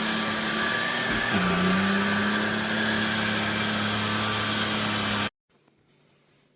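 Trucozie cordless stick vacuum running with a steady motor whine and rushing suction. About a second in its pitch dips briefly and climbs back, then the sound cuts off abruptly near the end.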